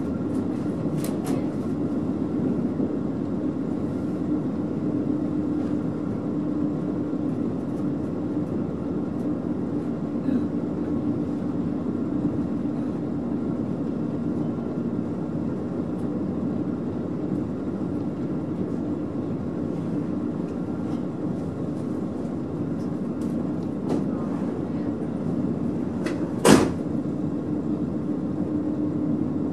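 Running noise inside a KiHa 40 diesel railcar as it slows gently from about 77 to 66 km/h: a steady rumble with a low hum, a few light clicks, and one sharp clack about 26 seconds in.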